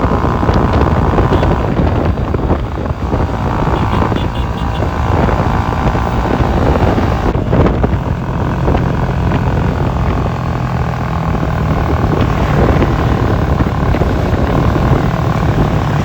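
Yamaha R3 motorcycle being ridden at speed: the engine runs steadily under loud wind rush on the microphone.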